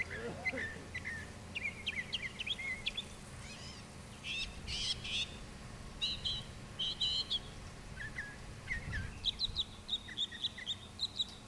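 Birds chirping, with many short, quick notes that go on throughout, over a steady low hum.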